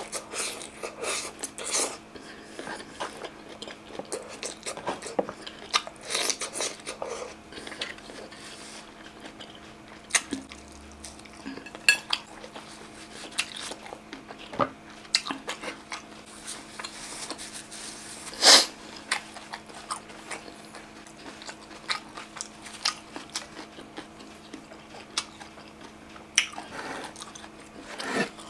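Close-up chewing and mouth clicks of someone eating shredded green mango salad (som tam) by hand. Short sharp clicks and crunches are scattered throughout, with a louder sharp click about eighteen seconds in, over a faint steady hum.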